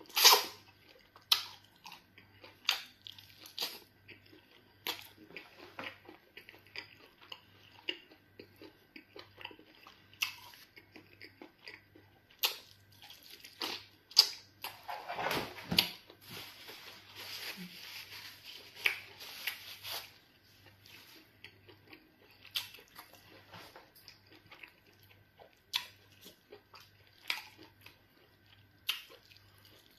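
Close-miked eating sounds of a person biting and chewing a piece of chicken coated in black soup, with repeated sharp clicks of the bites. There is a busier stretch of chewing about halfway through.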